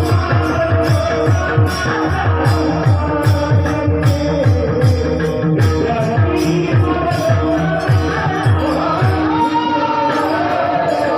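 A Warkari bhajan tune sung by one voice, carried by a low drum beat of about three strokes a second and jingling metal percussion keeping time.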